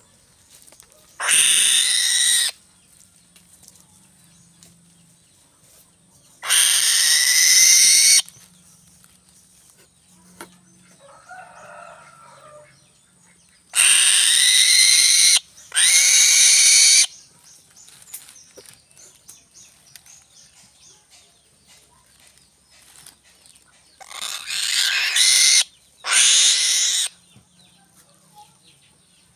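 Six loud, harsh bird calls, each about one to one and a half seconds long, some in close pairs, with quiet between them.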